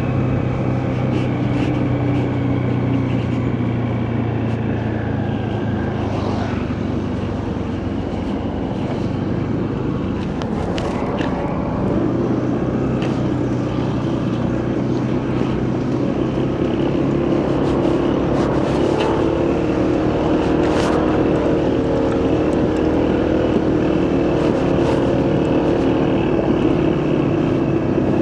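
Motorcycle engine running steadily at road speed under wind and road noise. A higher engine tone comes in about two-thirds of the way through, and there are a few sharp ticks.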